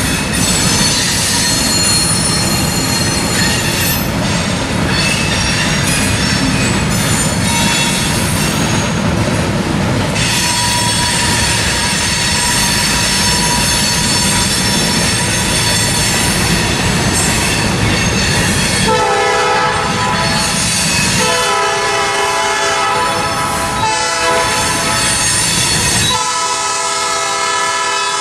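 A freight train rolling by with its wheels squealing on the curve as it takes a branch track. In the last nine seconds or so the lead GP38-2 locomotive's Nathan P5 five-chime horn sounds in several blasts.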